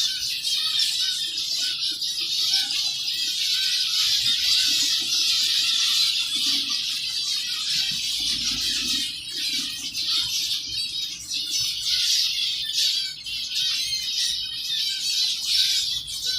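A colony of zebra finches calling continuously, many short high chirps overlapping.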